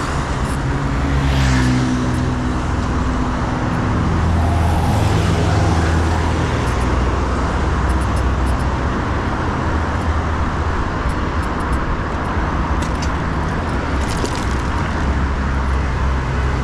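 Busy road traffic: motor vehicle engines hum as they pass close by, over a steady rush of road noise.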